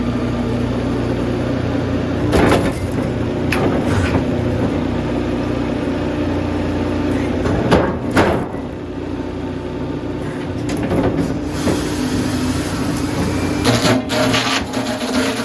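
Sawmill machinery running steadily with a low engine-like drone, broken by several sharp clanks and knocks.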